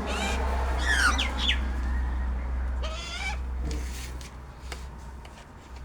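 Wild birds giving short calls that slide in pitch, several in the first second and a half and again around three seconds in, over a steady low hum.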